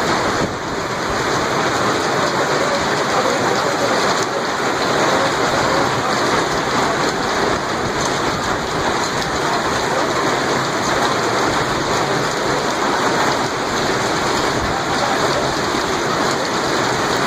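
Heavy storm downpour pelting down steadily, a dense, even hiss with no let-up.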